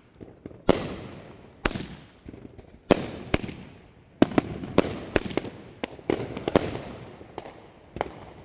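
Fireworks exploding: single sharp bangs about a second apart, then a faster run of bangs with crackling in the middle, and one more bang near the end.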